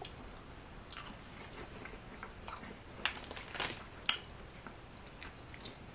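Quiet chewing of sugar-coated Haribo Pasta Frutta gummy candy, with soft wet mouth clicks; the clearest three come about three to four seconds in.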